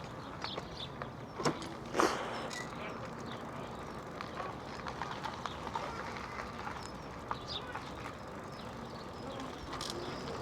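Faint outdoor background with scattered bird chirps over a steady low hiss, broken by two sharp knocks about a second and a half and two seconds in.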